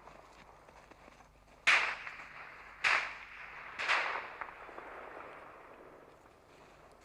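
Gunfire: three sharp shots about a second apart, each trailing off in an echo.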